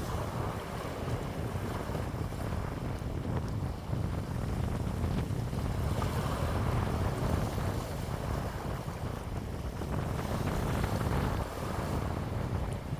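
Wind blowing in gusts and buffeting the microphone with a low rumble, swelling and easing every few seconds.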